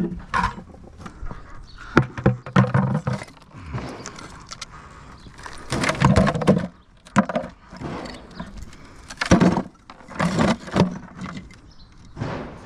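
Old chimney bricks being knocked loose and handled by hand: irregular knocks and clattering of brick on brick, with louder clusters about two, six and nine to ten seconds in.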